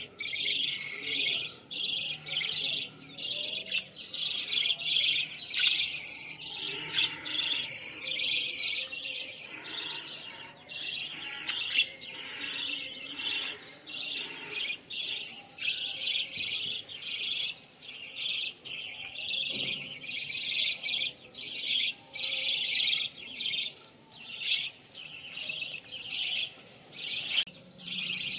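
A flock of Australian parrots (budgerigars) chirping and chattering together, with many quick high chirps overlapping without a break.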